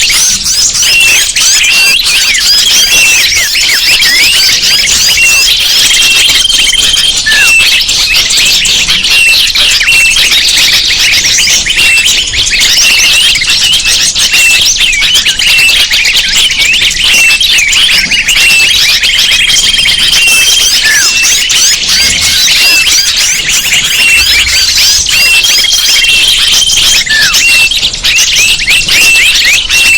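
Dense chorus of many small birds chirping and calling over one another without a break, from a bird-lure recording that mixes the calls of many species. A steady high whistled note about a second long recurs every several seconds.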